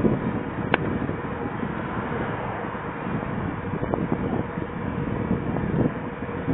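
Wind rushing over a head-worn camera's microphone while riding a bicycle, with small irregular knocks and rattles and one sharp click just under a second in.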